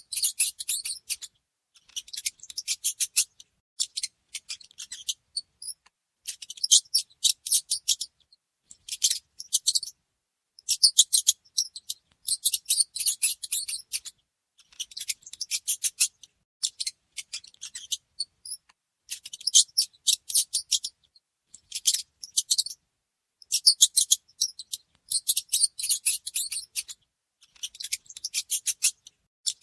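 High-pitched, rapid chirping trills in repeated bursts of about a second each, separated by short pauses.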